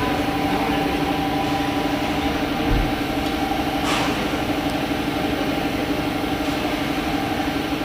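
Mahindra Scorpio engine running at a steady idle, an even hum. There is a brief low thump about a third of the way in and a faint click soon after.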